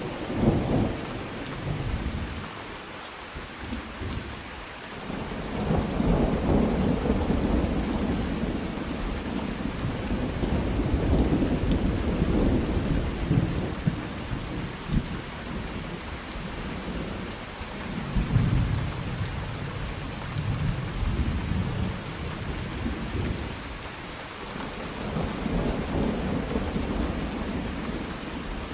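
Thunderstorm: steady rain falling, with rolls of thunder that swell and fade several times.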